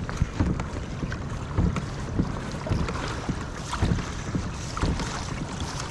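Water slapping and lapping against a kayak hull in irregular short knocks, over a low rumble of wind on the microphone.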